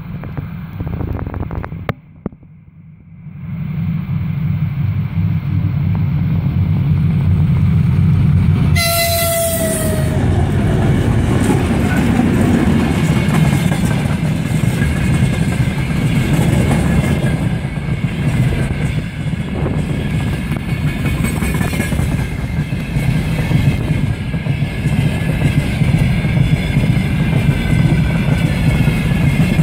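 A 2TE10U diesel locomotive and a ChME3 shunter hauling a freight train past: a deep diesel rumble builds over the first few seconds, a short horn blast sounds about nine seconds in, then the freight wagons roll by with a steady rumble and the clatter of wheels over rail joints.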